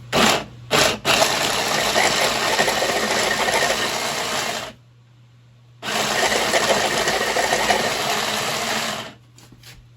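Electric food chopper grinding chunks of horseradish root: two short pulses, then running about three and a half seconds, a pause of about a second, and running about three seconds more.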